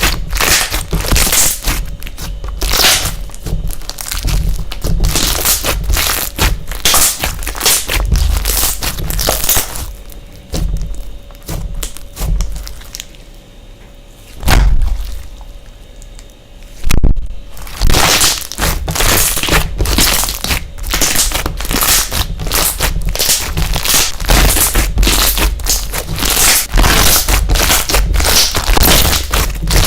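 Slime being squeezed and pressed by hand, giving dense crackling and popping clicks. The crackling thins out for a few seconds partway through, with a sharp snap, then picks up again.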